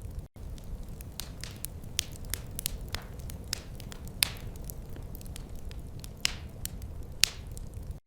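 Wood fire crackling: sharp irregular pops and snaps, several a second, a few louder ones, over a low steady rumble. The sound briefly cuts out twice, shortly after the start and just before the end.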